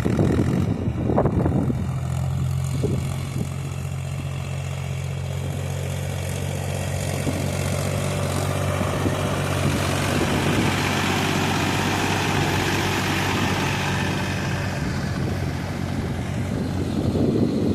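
Mahindra 275 tractor's three-cylinder diesel engine running steadily while driving a rotavator, with a rushing noise that swells in the middle and fades toward the end.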